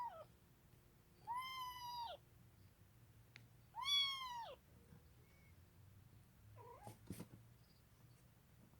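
Young kitten meowing: two high, arching meows about two seconds apart, the second the loudest, after the end of an earlier one. A faint short sound and a sharp click follow a few seconds later.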